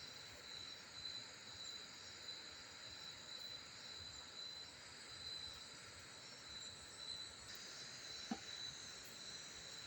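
Steady chorus of forest insects, crickets among them: a continuous high, shrill ringing over a soft hiss, with a single light click near the end.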